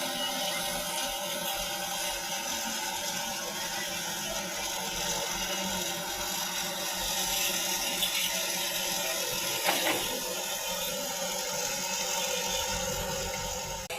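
Tractor-driven wheat thresher and straw chopper running together: a steady, dense mechanical clatter and whir, with one brief louder knock about two-thirds of the way through.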